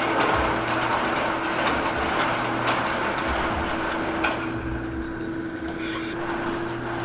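A steady electrical hum under a broad rustling noise with scattered knocks and light clatter; the rustling drops away after a sharp knock about four seconds in.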